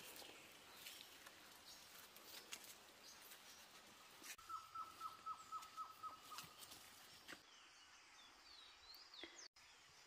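Faint birdsong outdoors: a run of about nine quick notes of one pitch, about four a second, near the middle, then higher warbling, gliding notes later on.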